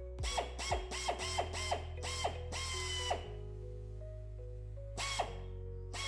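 Electric drill run in short trigger bursts, about a dozen quick whines that each drop in pitch as the motor spins down, with one longer run about three seconds in and two more bursts near the end. It is drilling rivet holes in a metal exhaust heat shield.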